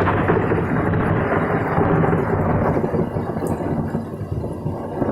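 Thunder from a nearby cloud-to-ground lightning strike, a loud rolling rumble that dies away over the last couple of seconds.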